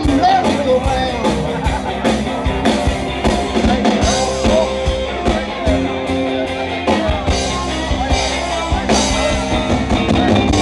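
Rock-and-roll band playing an upbeat number with electric guitar and a drum kit keeping a steady beat, in an instrumental stretch without lyrics.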